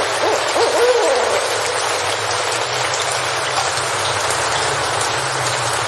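Steady rain falling in a forest, an even hiss of drops. In the first second or so a few short rising-and-falling calls sound over it.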